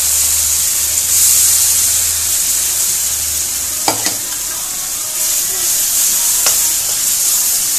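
Onion, garlic and ginger paste frying in hot oil in a metal kadhai: a steady sizzle, with a few clicks of the ladle against the pan as it is stirred, about four and six and a half seconds in.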